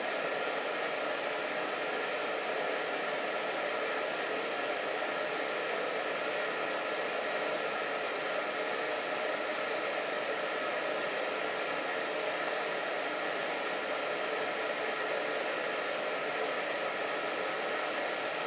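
Electric blower fan of a Christmas inflatable decoration running steadily, a continuous rushing whir with a faint hum.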